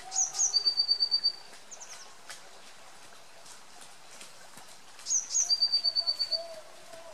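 A songbird sings the same short phrase twice, about five seconds apart: two quick high notes, then a rapid trill of about nine even notes, then a short high ending.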